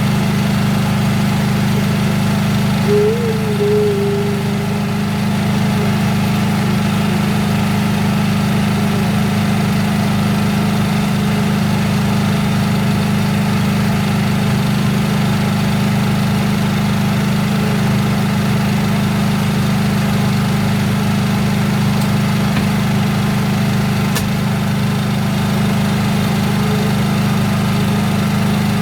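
Speedboat's outboard engine running at a steady, unchanging drone.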